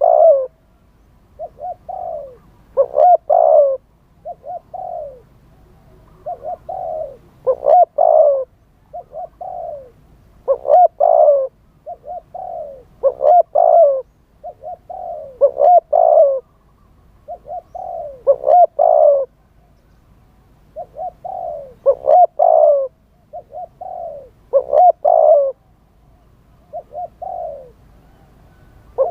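Spotted dove cooing: short phrases of several low, rolling coos, repeated every two to three seconds.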